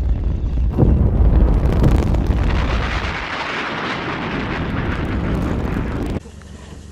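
Atlas-Centaur rocket exploding: a deep rumble surges suddenly about a second in, then turns into a broad hissing roar. It cuts off abruptly near the end, leaving a faint low hum.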